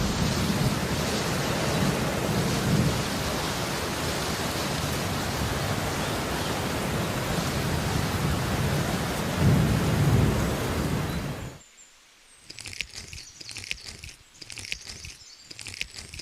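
Rain falling steadily with low rolls of thunder, the thunder swelling twice. About eleven and a half seconds in, the rain cuts off suddenly, leaving only faint, broken high-pitched sounds.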